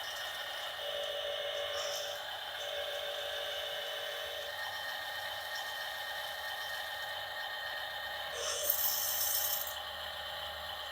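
Electric motor and plastic gearbox of a toy RC dump truck whining steadily, stepping in pitch a few times as the speed changes. A short hissing scrape, like sand being scraped or poured, comes about eight and a half seconds in.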